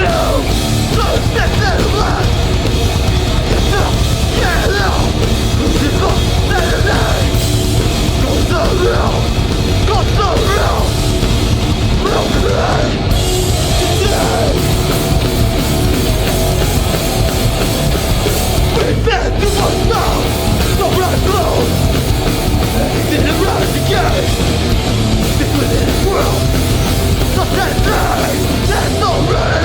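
Loud live hardcore band playing a song, with a dense, unbroken wall of sound and heavy low end.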